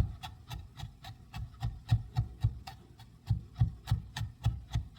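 Chef's knife mincing fresh garlic on a cutting board: a steady run of quick chopping strikes, about four a second.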